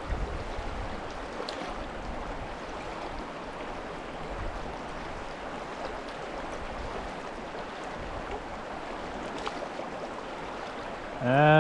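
Steady rush of the Little Truckee River's flowing water. Near the end a person's voice cuts in, holding one steady note.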